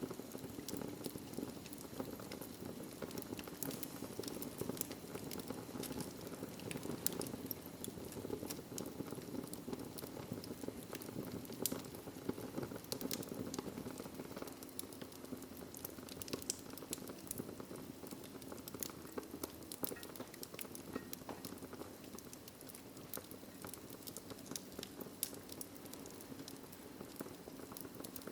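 Wood fire crackling in a fireplace: frequent sharp pops and snaps over a steady low rush of flame.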